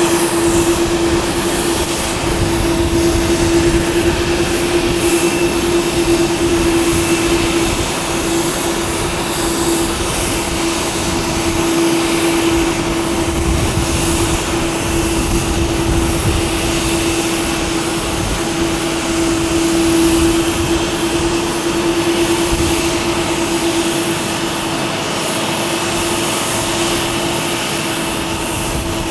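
Airbus A330-300 jet engines running steadily at low power while the airliner taxis: a constant even drone with a steady humming tone and no spool-up.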